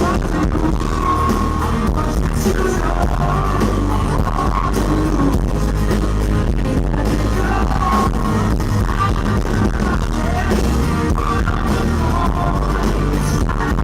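Live pop-rock band playing loud, with drums hitting throughout and some singing in the mix. The sound is recorded close to the stage and comes out rough and distorted.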